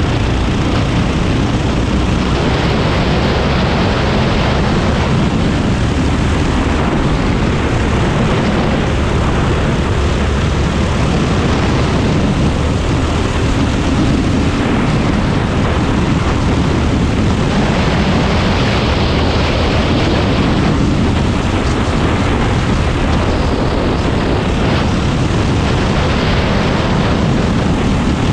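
Predator 390 single-cylinder four-stroke kart engine running under racing load, loud and steady with no letting off.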